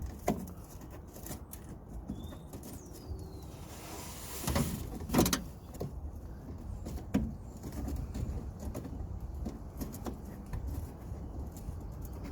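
Scattered clicks and knocks of hand tools and screws while a cover's screws are being fitted and tightened, with two louder knocks about halfway through. A low steady hum lies underneath.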